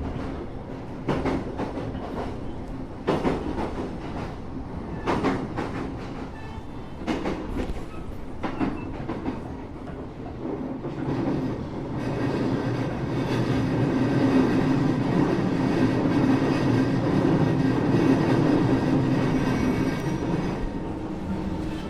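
Rolling noise inside a moving passenger train car: wheels clack over rail joints about once a second, then from about eleven seconds in the sound turns into a louder, steady rumble with a hum.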